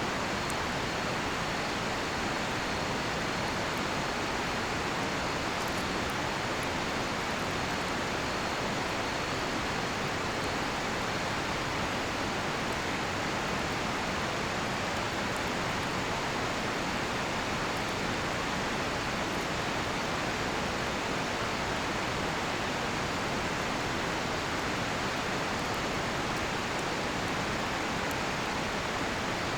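Steady rushing of a nearby river, with a few faint crackles from a cedar-wood campfire.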